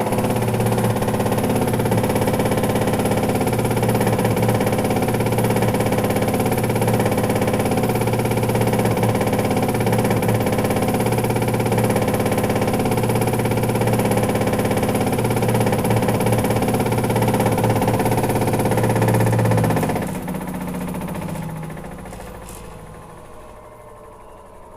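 Washing machine drum on a high-speed spin, a loud steady hum. About twenty seconds in the motor cuts out and the drum coasts down, its pitch falling as it slows.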